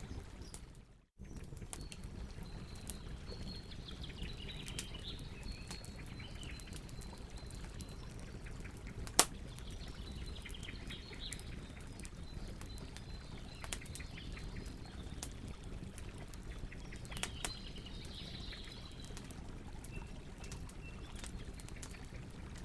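Campfire crackling with scattered sharp pops, one loud crack about nine seconds in, over the steady rush of a river. Birds chirp faintly at times.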